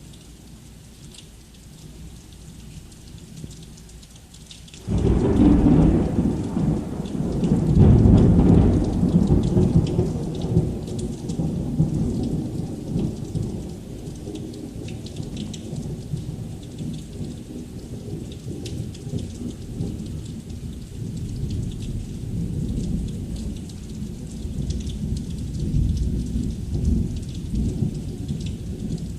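Heavy rain falling with a steady hiss. About five seconds in, a sudden loud thunderclap breaks, swells again a few seconds later, then rolls on as a long low rumble that slowly eases off.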